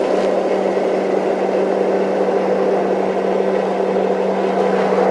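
Small tractor's engine running steadily, with a constant hum.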